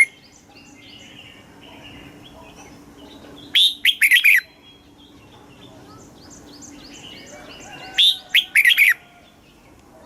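Red-whiskered bulbul singing: a loud phrase of several quick notes, twice, about four seconds apart, with fainter chirps in between.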